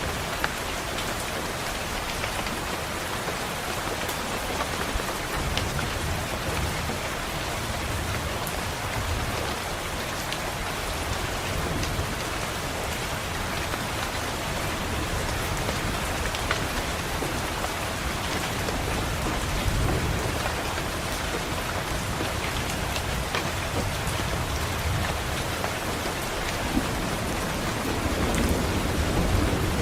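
Steady rain falling on a window, with low rolls of thunder rumbling several times, the last and strongest near the end.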